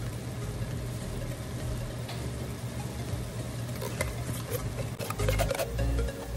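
Chicken and onions sizzling gently in a wok over a steady low hum. From about four seconds in, a few clicks and scrapes as a spoon scoops condensed cream of mushroom soup out of a tin can into the pan.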